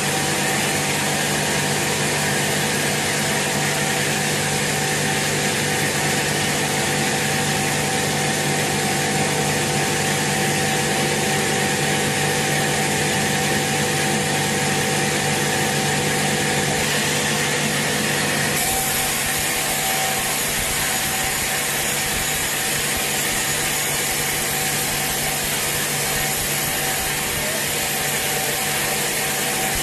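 Sawmill saw running steadily through a teak log, a loud continuous grinding hiss over a low hum; the tone shifts about two-thirds of the way through.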